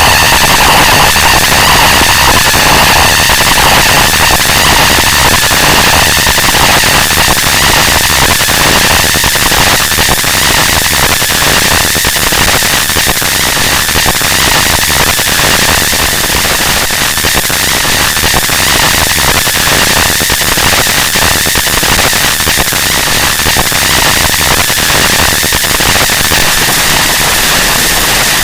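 Harsh noise music: a loud, continuous wall of distorted static and crackle filling the whole range, with faint steady whistling bands up high.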